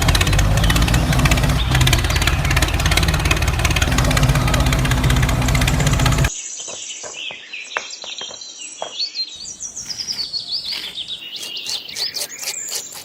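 A loud, dense noise cuts off suddenly about six seconds in, giving way to birds chirping and calling.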